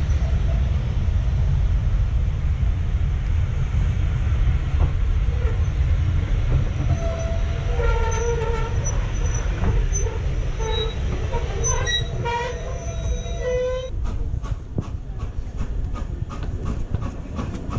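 A train running past with a heavy low rumble. Wavering high tones sound through the middle, rising at the end, and then give way to a quick regular beat of about three to four strokes a second.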